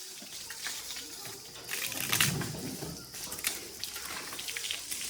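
Wet mud pouring and splashing as it is dumped from a backhoe bucket, with scattered knocks, loudest about two seconds in.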